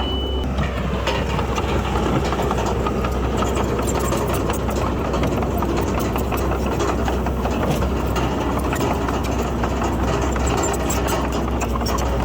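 Diesel engine of heavy earthmoving machinery running steadily, with a deep low hum and light clicking near the end.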